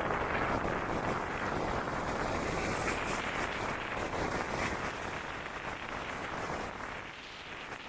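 Outdoor street noise with a vehicle going by, its sound slowly fading away.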